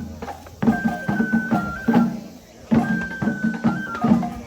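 Japanese festival hayashi music for a lion dance: a high bamboo flute playing held notes that step between pitches, over a steady run of drum strokes.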